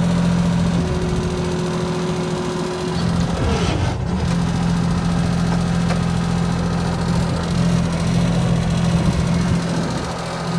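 Bobcat 553 skid steer loader's diesel engine running steadily. About three and a half seconds in, a whine falls in pitch and the engine note dips briefly, then settles back to its steady run.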